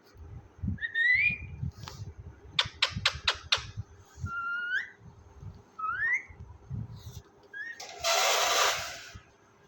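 Pet parrot making several short rising whistles, with a quick run of sharp clicks in the middle and a harsh, noisy squawk about eight seconds in.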